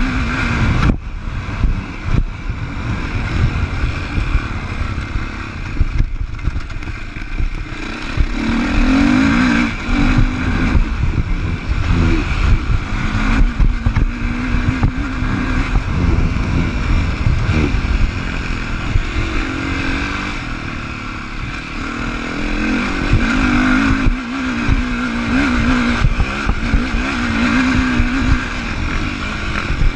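Engine of a 2015 Sherco 450 SEF-R four-stroke single-cylinder enduro motorcycle running while the bike is ridden, revs rising and falling with the throttle. Scattered knocks come from the bike going over rough ground.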